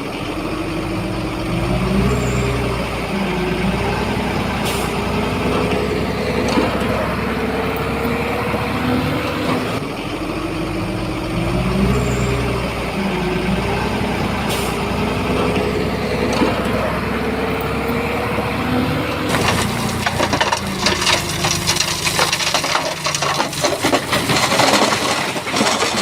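Shantui bulldozer's diesel engine working under load, its pitch rising and falling again and again as it pushes. In the last several seconds the engine is joined by a dense rattling clatter.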